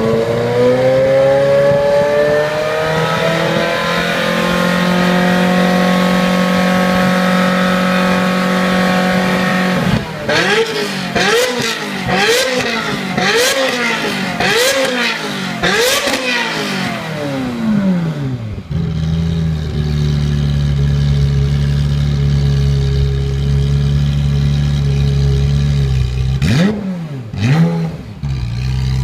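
Ferrari F355's V8 engine revving through its exhaust. The pitch climbs and holds high for several seconds, then comes a run of about six quick blips of the throttle. It drops to a steady idle, with one more short blip near the end.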